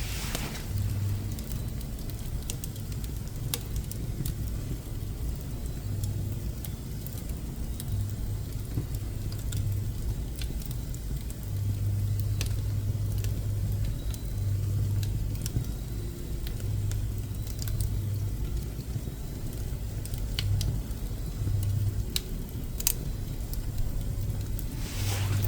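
Pine and woodworking scrap wood burning in a wood stove: scattered sharp crackles and pops over a low rumble that comes and goes.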